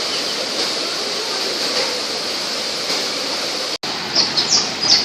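Steady rush of falling water, with faint bird chirps over it. About four seconds in, the sound cuts out suddenly, and a run of short, high bird chirps follows.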